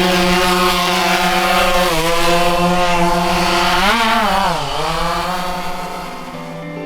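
DJI Phantom quadcopter drone's propellers buzzing steadily, the pitch rising briefly and dropping back about four seconds in.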